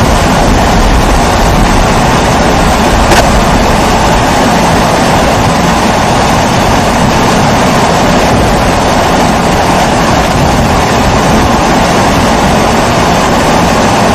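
Pressurised kerosene stove (a babour, primus type) burning with a steady, even hum, with one faint click about three seconds in.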